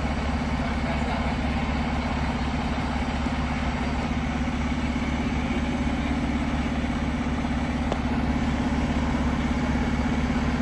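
Fire engine's diesel engine idling steadily with a deep, even rumble, getting a little louder about eight seconds in.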